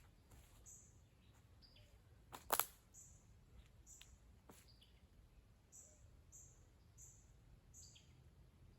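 Faint, high bird chirps repeating every half second or so, with one sharp knock a couple of seconds in.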